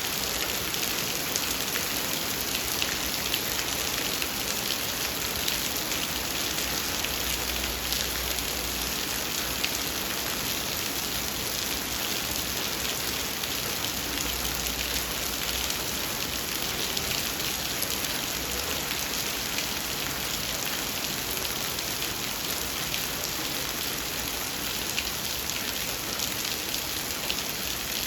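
Heavy rain falling steadily, a dense, even hiss of drops striking a surface with fine scattered drop taps throughout.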